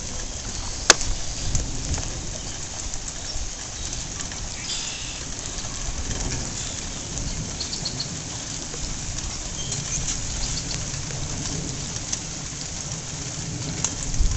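Steady rain falling, with a sharp click about a second in and a few faint high chirps now and then.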